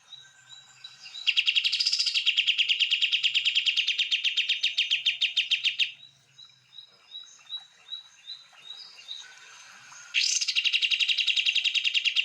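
Songbird singing: a fast trill of rapidly repeated notes for about four and a half seconds, then a series of short rising chirps, then the fast trill again near the end.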